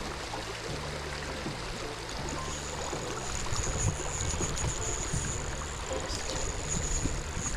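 Running stream water, with a quiet low background music line under it and a thin steady high whine from about two seconds in.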